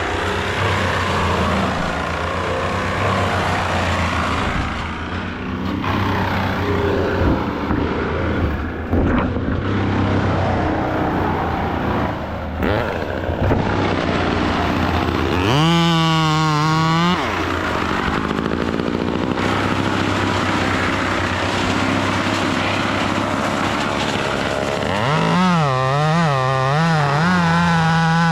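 Engine machinery running steadily, with a chainsaw revving to full throttle for a second or two about midway and again for the last few seconds, its pitch wavering up and down as it works.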